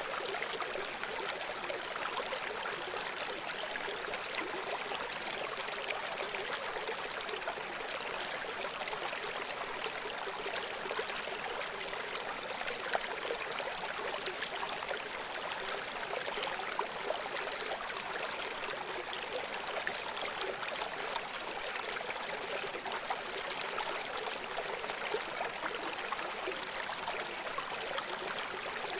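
A running stream: water flowing and burbling over stones in a steady rush, with small splashes and trickles scattered through it.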